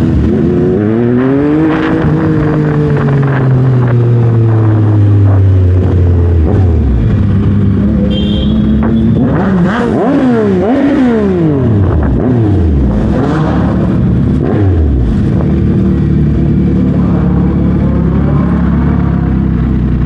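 Yamaha MT-09 (2021) 890 cc inline-three running through a full Dominator exhaust while riding. The revs climb, hold and sink over the first six seconds, then rise and drop quickly several times around the middle before settling at a steady pitch.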